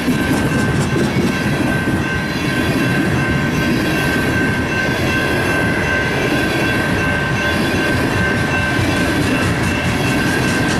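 Loaded coal train cars rolling steadily past, wheels clattering over the rails with a steady high-pitched ring over the rumble.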